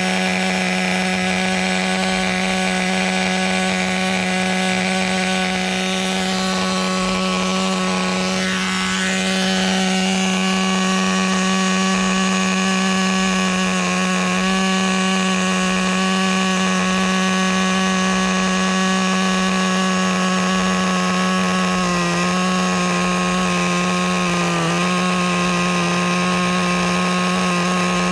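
Small two-stroke nitro glow engine of a brand-new Traxxas Nitro Rustler RC car, running at a steady high pitch. A few brief dips in pitch come near the end.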